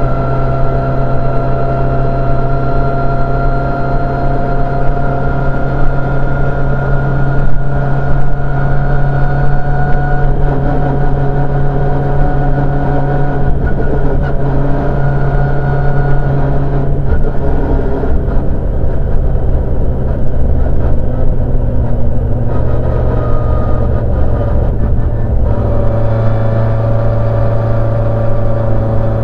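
Citroën C2 R2 rally car's four-cylinder engine heard from inside the stripped cabin, a loud, steady drone at cruising speed with road noise, its note changing around the middle and again near the end.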